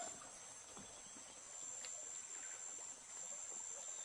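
Insects chirring in a steady, high-pitched drone, with faint rural background ambience.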